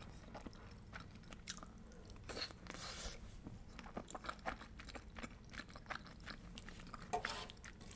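Close-miked chewing of creamy penne pasta with shrimp: soft mouth sounds with many small clicks, louder for a moment about two and a half seconds in and again near the end.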